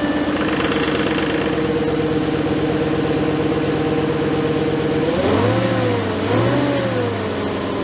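2004 VW Touareg's 4.2-litre petrol V8 idling steadily, then revved twice in quick blips, about five and six seconds in, each rising and falling back to idle. It runs on a freshly replaced ignition coil, and the misfire appears to be gone.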